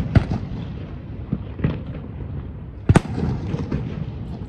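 Aerial fireworks bursting: a sharp bang just after the start and a double bang about three seconds in, with crackles and a rumbling echo between them.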